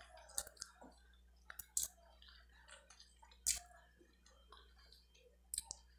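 Faint close-miked chewing of a mouthful of chicken from chicken soup, with a handful of short mouth clicks, the loudest about three and a half seconds in.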